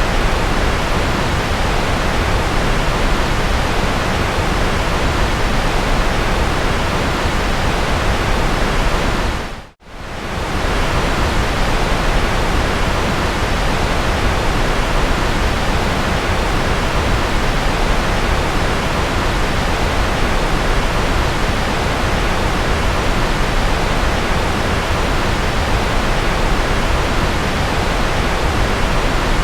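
Steady, even white noise, a dense hiss spread across all pitches with no tones or rhythm. About ten seconds in it briefly dips to near silence and comes straight back.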